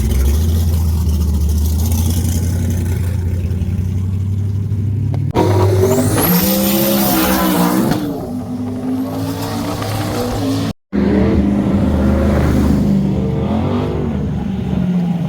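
V8 engines of a drag race between a heads-cam-nitrous Camaro and a twin-turbo 5.0 F-150. A steady low rumble for about five seconds is followed suddenly by a loud full-throttle run, the pitch rising with each gear, with a high rising whistle partway through. A brief cut near the end leaves engine noise continuing.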